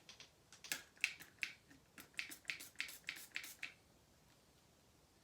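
Handling of a mist spray bottle: a quick run of about a dozen light clicks and taps over three and a half seconds, then quiet.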